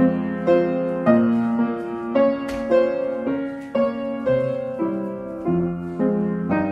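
Piano music played as accompaniment for a ballet adagio at the barre, with notes and chords struck about twice a second in a steady, unhurried pulse.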